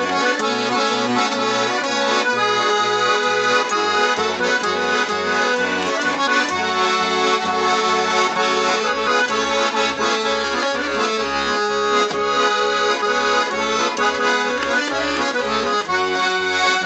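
Garmon (Russian button accordion) playing an instrumental interlude: a melody on the right-hand keys over a steady, pulsing bass-and-chord accompaniment.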